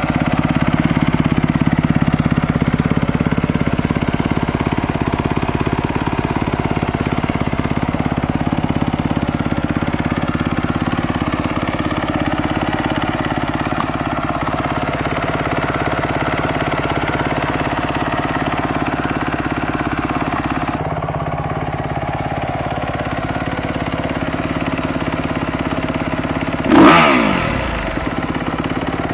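2012 Kawasaki KX250F's single-cylinder four-stroke engine warming up at a steady idle after a cold start. Near the end there is one quick throttle blip that dies back down to idle.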